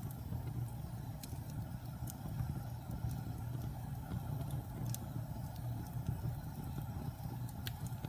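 Fire burning in a fireplace: a steady low rumble with sharp crackles and pops scattered irregularly through it.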